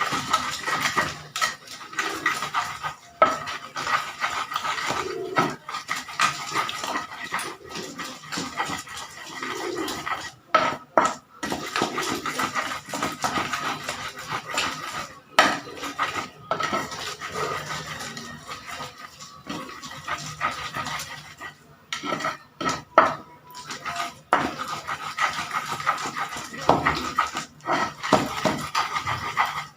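Kitchen utensils and dishes clattering, with many irregular knocks and clinks.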